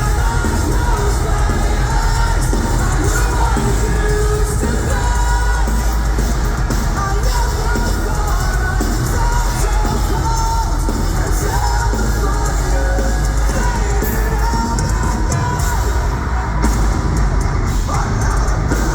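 Metalcore band playing live with vocals, loud and dense with heavy bass, heard from the crowd.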